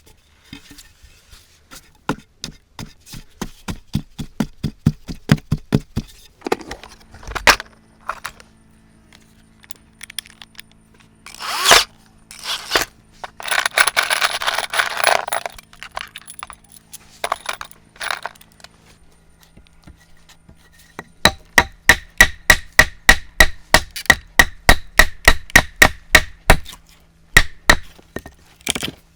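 Hand-tool work: two quick runs of sharp knocks, about five a second, the later run ringing a little, with a stretch of scraping between them.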